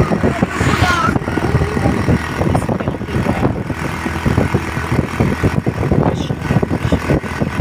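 A motor vehicle engine running steadily, with a dense low rumble throughout.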